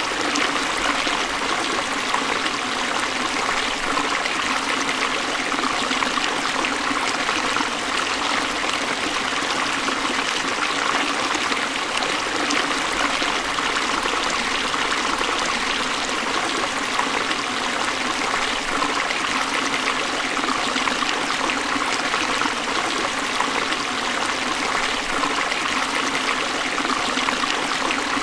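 Forest stream running over rocks: a steady, unbroken rush of flowing water.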